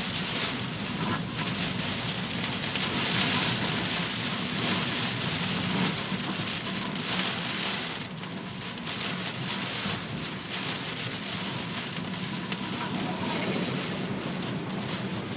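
Heavy typhoon downpour: dense rain falling and hitting a surface, with a low steady hum beneath it. The rain eases slightly about halfway through.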